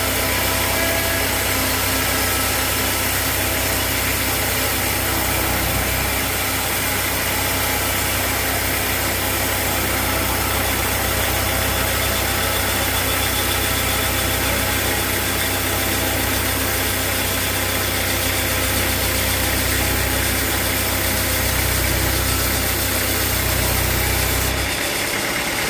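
Sawmill engine running steadily with an even low hum and a wide noisy wash above it. The low hum drops away near the end.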